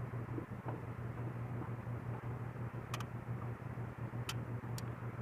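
A few light, sharp clicks of the plastic housing of a chronograph being handled and fitted back together, over a steady low hum.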